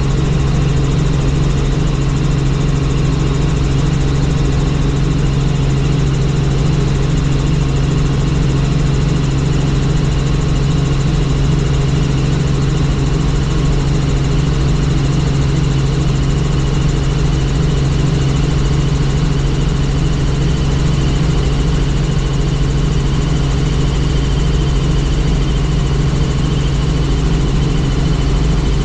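Helicopter in flight: a steady, loud drone of rotor and engine with a thin high whine over it, unchanging throughout.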